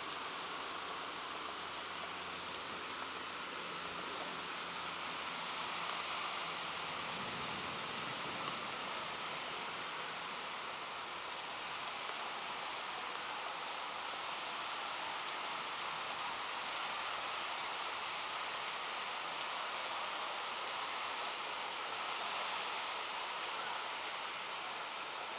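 Steady rain falling during a thunderstorm, with a few sharp drip ticks scattered through it.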